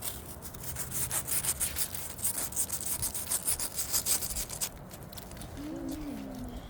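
Rapid crunching and scraping of snow, a quick run of crisp strokes that stops about four and a half seconds in. A brief, faint wavering squeak follows near the end.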